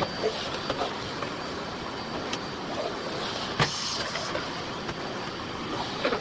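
Miele Blizzard CX1 vacuum cleaner running steadily while vacuuming, with a thin high whine over the airflow noise. A sharp knock about three and a half seconds in and a lighter click a second earlier, as the cleaning head bumps against something.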